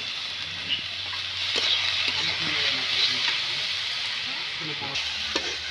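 Hot cooking oil sizzling in a pan, with a few light clicks of a utensil against it.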